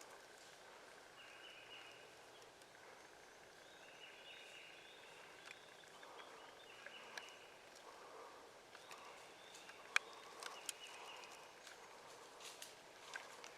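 Quiet woodland with faint songbird calls, short high chirps, and a few light ticks and rustles, the sharpest about ten seconds in.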